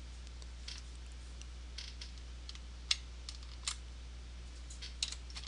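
Computer keyboard keys and mouse buttons clicking at an irregular pace, a few sharper clacks about three and five seconds in, over a low steady electrical hum.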